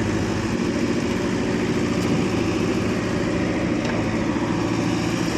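Diesel tractor engine running steadily, its low, even firing close by.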